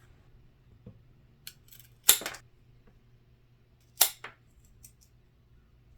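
Small scissors snipping through duct tape: two sharp cuts about two seconds apart, with a few fainter clicks of the blades and tape handling around them.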